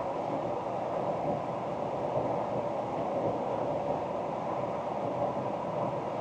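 2024 Ford Ranger Wildtrak pickup driving at a steady pace: a steady mix of engine and tyre road noise with no change in pitch.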